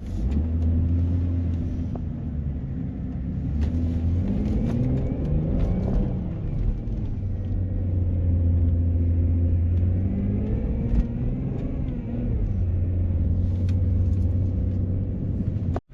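Jaguar four-wheel-drive car driven on fresh snow, its engine running under a deep steady rumble. The engine rises and falls in pitch twice as it is revved and eased off.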